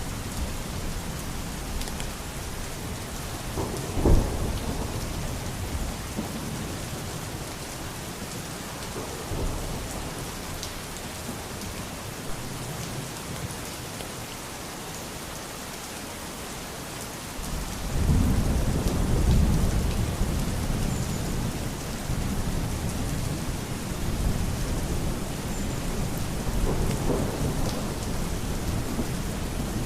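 Steady rain falling, with a sharp crack of thunder about four seconds in and a long, low rumble of thunder starting a little past the middle and slowly dying away.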